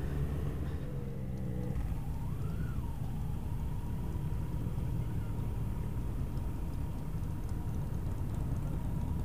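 Kawasaki Z900 motorcycle engine running on the move, a steady low rumble, with a faint steady high tone through most of it.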